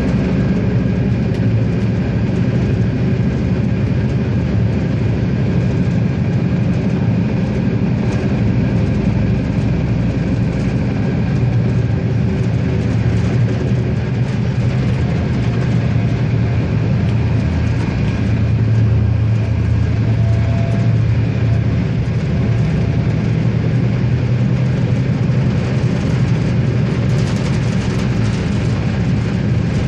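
Regiosprinter diesel railcar running along the line: a steady low engine drone mixed with wheel and rail noise.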